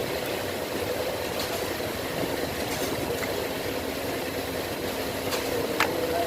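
Steady mechanical hum with a held mid-pitched tone and a few faint ticks, like a motor or engine running.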